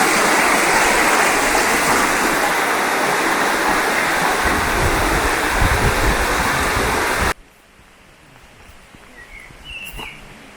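Steady rushing water, like a fast mountain stream, that cuts off abruptly about seven seconds in, leaving a much quieter outdoor background with a few faint chirps.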